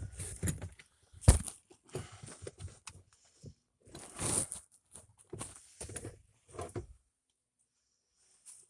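Irregular crunching footsteps in snow, with one sharp click about a second in and a louder crunch midway, then a pause near the end.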